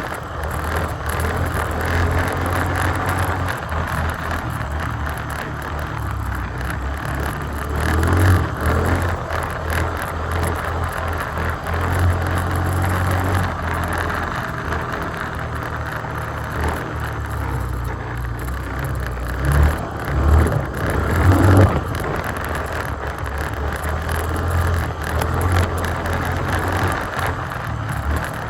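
2021 Yamaha Grizzly 350 ATV's single-cylinder engine running steadily under way, with wind and ground noise. There are a few brief louder surges about a third of the way in and again around three quarters through.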